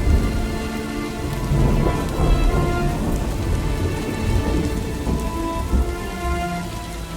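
Heavy rain falling with a deep, rolling thunder rumble, easing slightly near the end.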